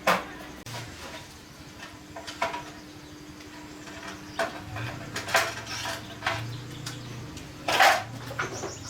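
Metal parts and tools clinking and clattering as they are handled and set down, a series of separate knocks with the loudest near the end, over a faint steady hum.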